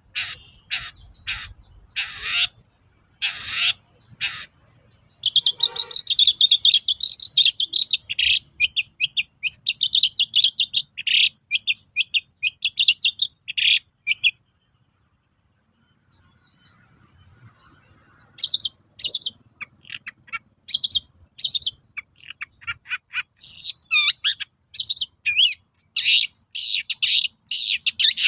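Long-tailed shrike singing: a few harsh short call notes, then a long fast chattering run lasting about nine seconds, a pause of a few seconds, and another stretch of quick sharp calls near the end.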